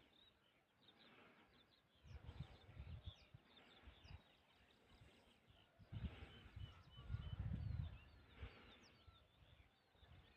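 Faint birdsong: many short chirps and quick falling whistles from small birds. Twice, about two seconds in and again from six to eight seconds in, a low rumble rises over it.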